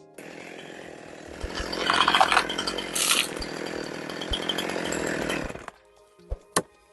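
Chainsaw cutting into a tree trunk, making the back cut of a felling, then stopping after about five and a half seconds. Two short knocks follow near the end.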